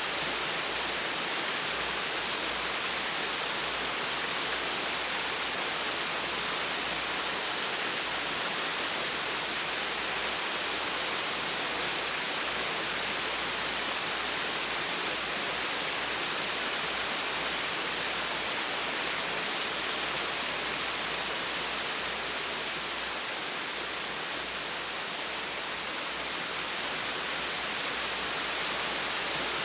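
Gentle waterfall: a steady, even rush of falling water, brightest in the high range.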